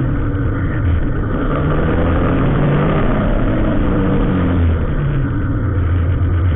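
Road vehicle engine running steadily in slow traffic, a loud low hum whose pitch rises and falls a little.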